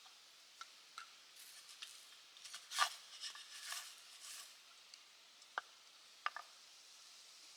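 Quiet handling sounds: scattered small clicks and taps, a short run of rustling about three seconds in, then two sharp ticks near the end.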